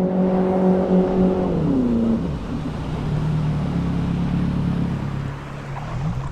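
Boat motor running steadily, then throttled back about one and a half to two seconds in, its note falling and settling lower, and picking up again briefly near the end.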